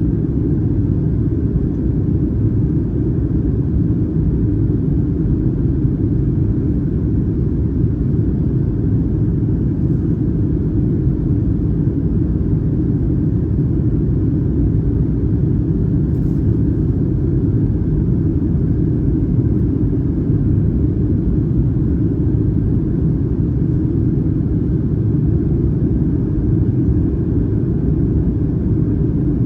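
Boeing 737-900ER cabin noise heard from an economy seat: a steady, deep rumble of the CFM56 engines and airflow, unchanging throughout.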